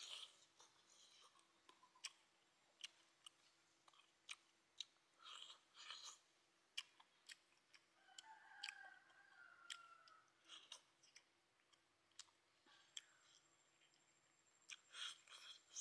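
Quiet close-up chewing of cooked frog meat eaten by hand, with short clicks and wet mouth noises at irregular intervals.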